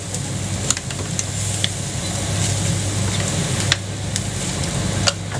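Jianbing pancake being cooked on a street-stall griddle: a steady hiss with a handful of sharp spatula clicks and scrapes over a steady low hum.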